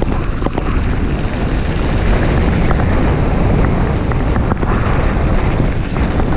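Wind buffeting the microphone of a camera on a moving bicycle: a loud, steady rush, heaviest in the low end, with a few small clicks here and there.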